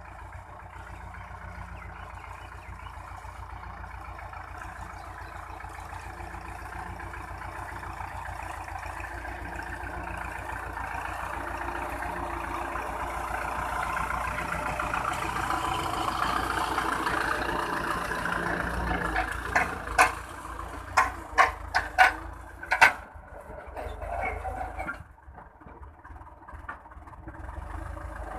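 Belarus MTZ-50 tractor's four-cylinder diesel engine running steadily as it pulls a cultivator through the field, growing louder over the first two-thirds. About two-thirds of the way in comes a quick run of sharp cracks, the loudest sounds, and soon after the engine sound drops.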